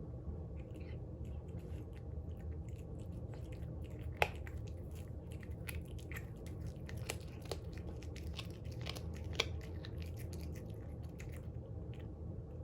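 A cat chewing and crunching a whole raw quail, with a run of short sharp cracks as it bites through, the two loudest about four seconds and nine and a half seconds in, over a low steady hum.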